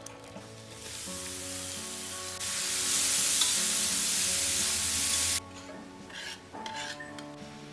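Shredded papaya flowers sizzling in a hot wok as they are stir-fried with a spatula. The sizzle builds about a second in, grows louder, then cuts off suddenly, leaving a few light clicks of the spatula and pan.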